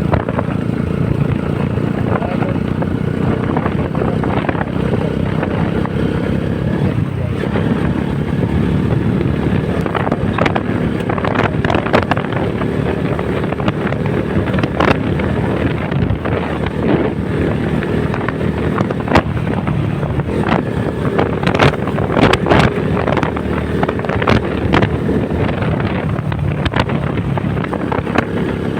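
Honda CBR150R's single-cylinder four-stroke engine running steadily under way, with wind buffeting the microphone in many short gusts.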